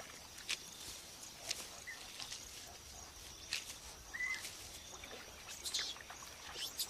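Faint natural ambience of rhesus macaques foraging in lush pond-side vegetation: scattered soft rustles and sharp crackles, with two short high chirps, the second about four seconds in.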